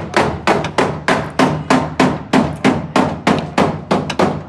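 Hammer blows in a steady rapid rhythm, about four strikes a second.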